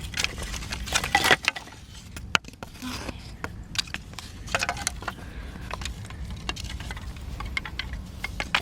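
Pieces of firewood knocking and clattering against each other as a campfire is stacked, a scatter of sharp irregular knocks, thickest about a second in, over a steady low rumble of wind on the microphone.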